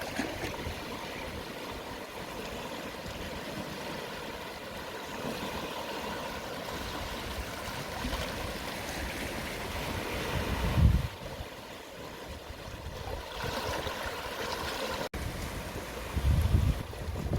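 Calm sea waves washing gently over the shore at low tide, a steady wash of surf. Wind buffets the microphone in low rumbles about eleven seconds in and again near the end.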